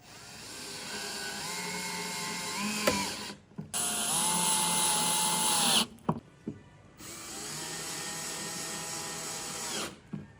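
Handheld power drill running in three bursts of two to three seconds each, with short pauses between them.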